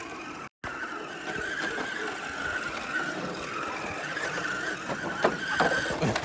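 Radio-controlled car driving, its electric motor giving a steady high whine over the scrub of its tyres on the ground, with a few sharp scuffs near the end.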